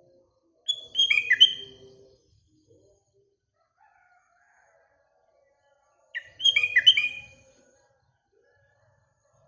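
Sooty-headed bulbul (kutilang) singing: two short phrases of quick notes that fall in pitch, one about a second in and another about six seconds in.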